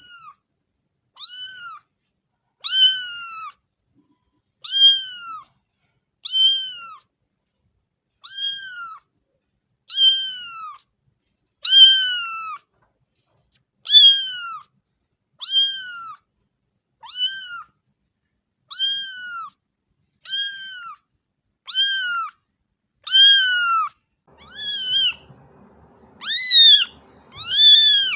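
A cat meowing over and over: short, high meows about one every second and a half, each rising then falling in pitch. The last few are louder, with a faint low background rumble coming in near the end.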